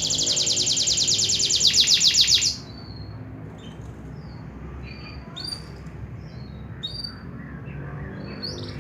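Canary singing: a loud, very rapid trill that stops about two and a half seconds in, followed by scattered short chirps and whistled notes.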